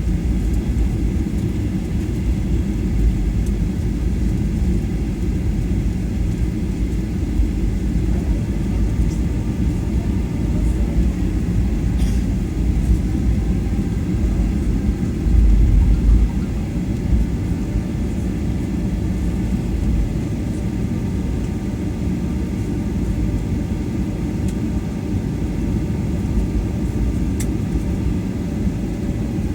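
Steady low rumble of an airliner's engines and airframe, heard from inside the passenger cabin, with a brief louder surge about fifteen seconds in.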